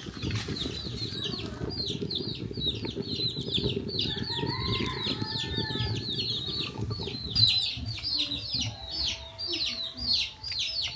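Birds chirping over and over, a quick down-slurred chirp about three times a second, over a low rumbling noise that fades out about seven seconds in.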